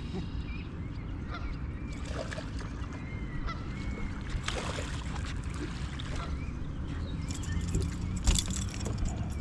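Geese calling with short honks and thin peeps over a steady low hum. A sharp knock comes about eight seconds in.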